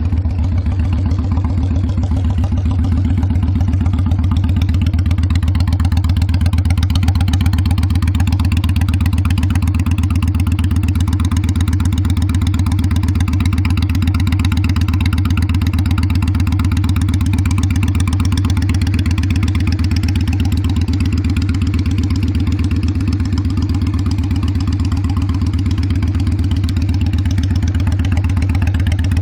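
Honda Steed 600's V-twin engine idling steadily through its exhaust, an even low beat that holds the same speed throughout.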